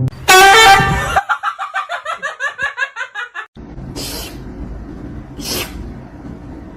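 Laughter: a loud opening cry, then quick repeated "ha-ha" pulses, about four to five a second for some two seconds. Two short breathy hisses follow about four and five and a half seconds in.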